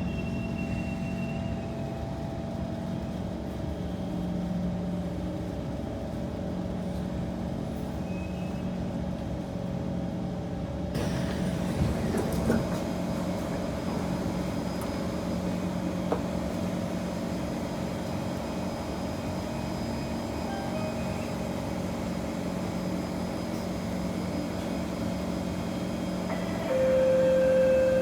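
Steady hum of a Kawasaki C151 metro train's onboard equipment inside the carriage while it stands at a station, several constant tones and no motor acceleration. A louder steady tone joins near the end.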